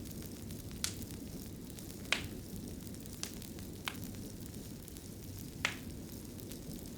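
Fireplace fire crackling: a steady low rumble of burning with five sharp, separate pops scattered through it.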